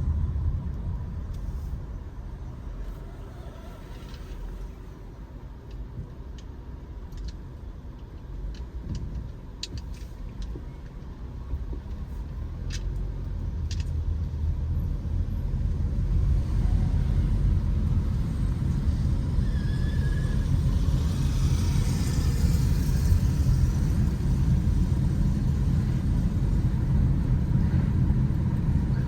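Low, steady rumble of a vehicle moving on a city road, with traffic noise. It eases off for several seconds, then builds back up and stays louder. A few faint clicks come through in the middle.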